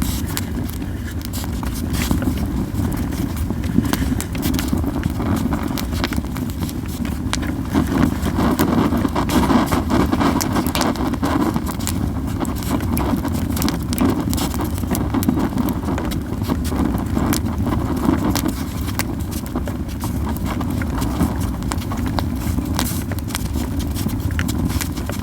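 Campfire of yew firewood burning, crackling with many sharp, irregular pops over a steady low rush of the flames.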